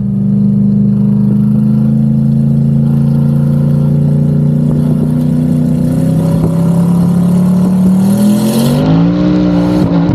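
Twin-turbocharged LS V8 in a Pontiac G8 running under way, its revs rising slowly and steadily, then climbing more quickly near the end. Two brief hisses come as the revs climb.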